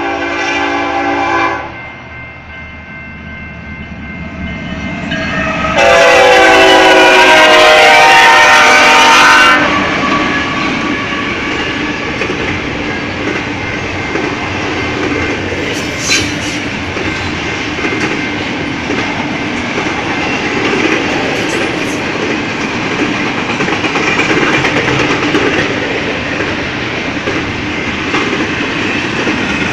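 Diesel freight locomotive horn on a BNSF container train: a short chord at the start, then a long, very loud blast about six seconds in as the train draws level. After that comes the steady rumble and rattle of double-stack container cars rolling past, with a few sharp clicks from the wheels.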